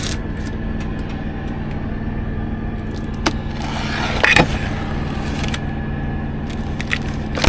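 A truck engine idling, a steady low drone. Over it come a few short scrapes and clicks of a pocket knife cutting into a cardboard microwave box, the loudest about four seconds in.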